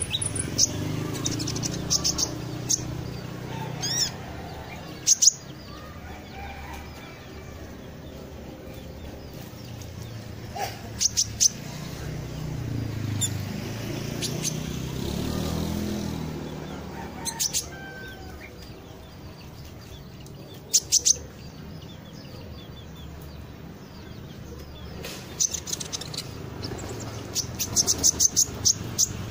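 A konin songbird chirping: short, sharp, high chirps in scattered clusters a few seconds apart, with a dense run of chirps near the end, over a steady low rumble.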